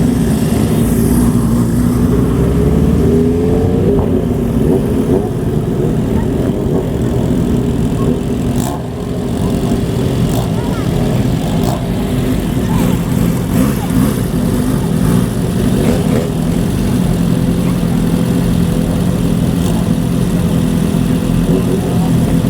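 Old motorcycles riding in one after another at low speed, their engines running loud through aftermarket exhausts. One rises in pitch on the throttle in the first few seconds.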